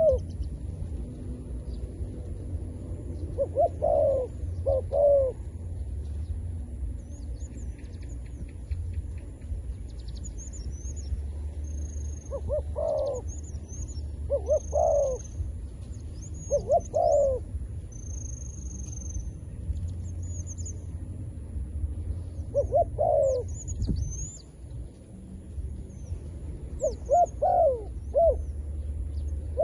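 A decoy dove cooing in short phrases every few seconds, calling to lure wild doves to the trap. Small birds chirp high and thin in the middle of the stretch, over a steady low rumble.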